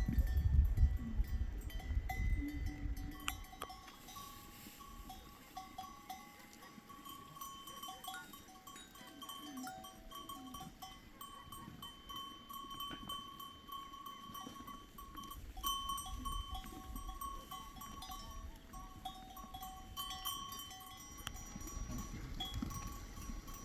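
Metal bells on a grazing flock of sheep and goats ringing on and off as the animals move. A low rumble is heard in the first few seconds and again near the end.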